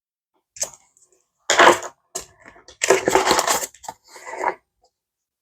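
Paper banknotes and their envelopes or pouches rustling and crinkling in several short bursts as cash is counted and moved by hand.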